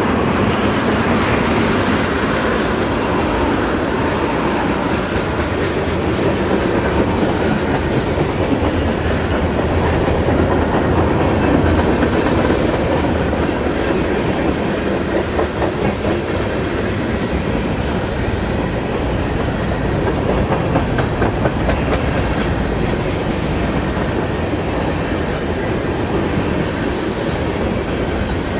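A train rolling past, with a steady rumble and rattle of wheels on the rails throughout.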